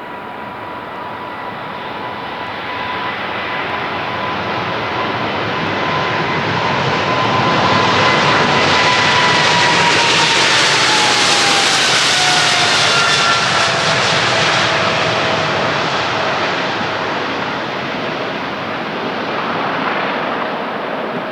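Boeing 777-300ER's GE90-115B turbofans at takeoff power as the airliner passes. A loud jet roar swells and then eases, while a fan whine holds steady and then drops in pitch about halfway through as the plane goes by.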